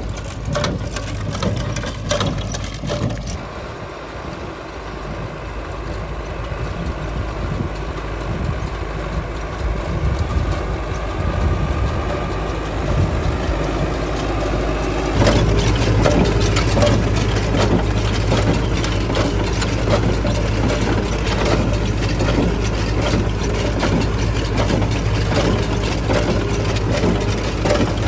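Tractor engine running with a steady low hum and dense mechanical clatter, which is most likely hay machinery at work. It gets abruptly louder and busier about 15 seconds in.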